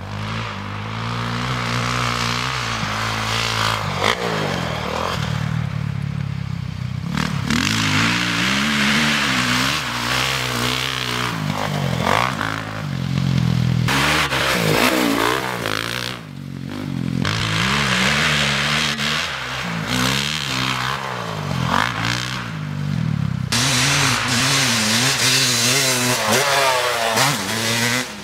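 Motocross bike engines revving hard and dropping off again and again as the bikes are ridden around the track, the pitch climbing through the gears and falling back every few seconds.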